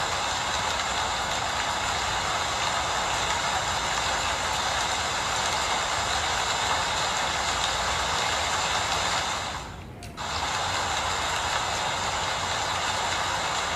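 Steady rain falling, an even hiss. The sound dips sharply for about half a second around ten seconds in, then returns as before.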